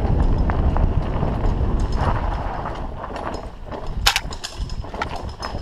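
Mountain bike rattling and knocking over a rough dirt trail, with tyre rumble and wind rumbling on the camera's microphone. A sharp clack about four seconds in.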